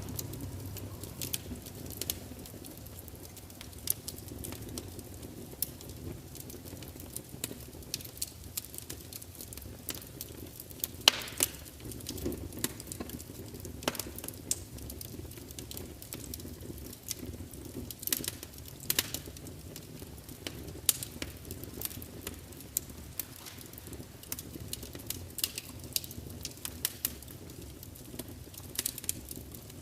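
Wood fire burning in a large fireplace: a low steady rumble of flames with frequent irregular crackles and pops from the logs, one louder pop about a third of the way in.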